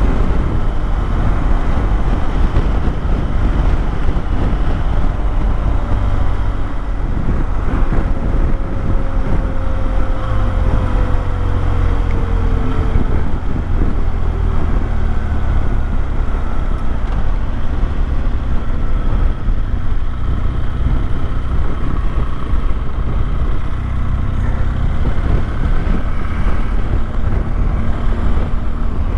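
Motorcycle riding at road speed: steady engine note under heavy wind rush on the microphone, with one tone falling in pitch about a third of the way in.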